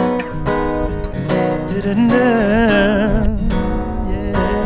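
Acoustic guitar strummed in a song, with a held wordless sung note wavering in vibrato about two seconds in.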